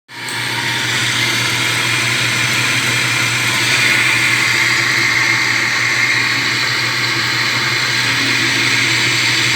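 Electric drill running steadily at constant speed.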